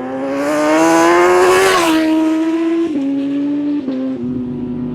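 Racing superbike engine at high revs passing close by: its note climbs and is loudest in the first two seconds, then drops in pitch in several steps.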